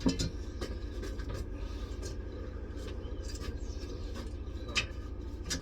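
Scattered light clicks and knocks of the metal Tyron band sections being handled and fitted into the tyre, over a steady low hum.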